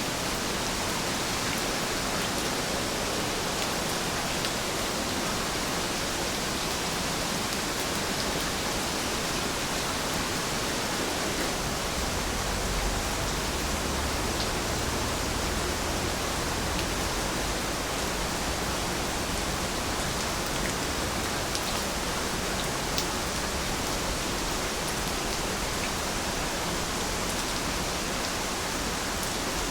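Steady rain falling: an even hiss with faint, scattered drop ticks. A low rumble joins about twelve seconds in.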